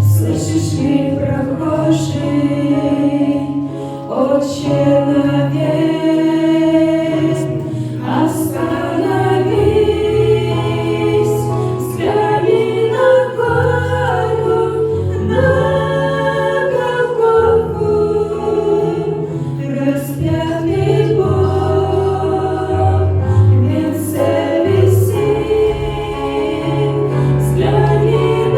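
A choir singing a Russian-language Christian song in several-part harmony over an accompaniment of held low bass notes.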